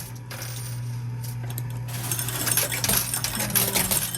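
Quarters dropping into a coin pusher machine and clinking onto the playfield and against other coins, over a steady low hum. The clinks are sparse at first and come thick and fast from about two seconds in.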